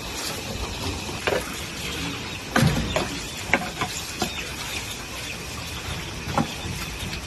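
Steady hiss of rain in a forest, with about five short sharp knocks and snaps scattered through, the loudest a little after two and a half seconds in.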